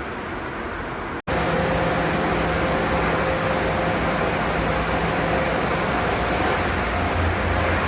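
Car wash tunnel equipment running: a steady rushing noise from sprays and motors. It cuts out for an instant about a second in, then comes back louder with a steady hum.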